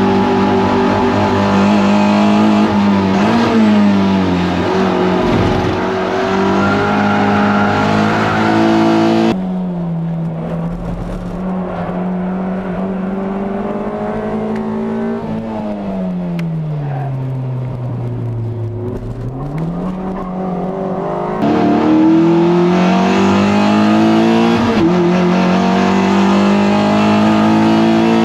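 Toyota MR2 race car engine running hard at high revs, heard onboard, holding a mostly steady pitch with brief dips and climbs through the gears. In the middle the sound turns muffled, and the revs drop away deeply before climbing again.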